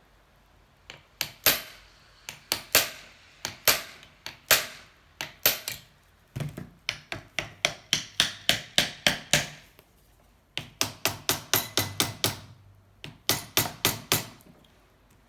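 Repeated hammer blows on a seized motorcycle engine, struck while working the stuck cylinder loose. A few scattered blows come first, then quick runs of about three to four strikes a second, each with a short ring, broken by a brief pause about ten seconds in.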